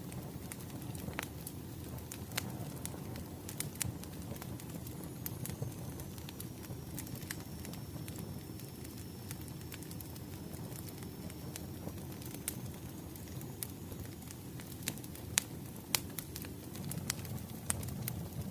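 Wood fire crackling: irregular sharp pops and snaps over a steady low rumble of burning logs, with a faint high thin whistle through the middle.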